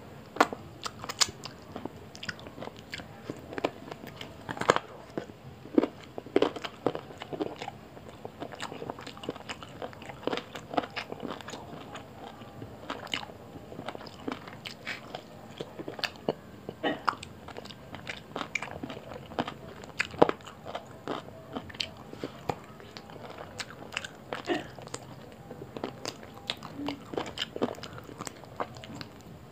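A person chewing mouthfuls of roti with chicken curry, eaten by hand, with many short mouth clicks coming at an irregular pace.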